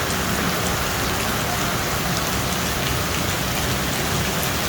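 Heavy rain pouring down steadily, an even hiss of drops with a few faint patters on top.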